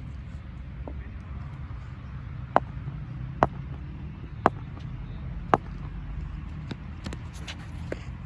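Four sharp knocks about a second apart, with a few fainter clicks near the end, over a steady low rumble of outdoor background noise.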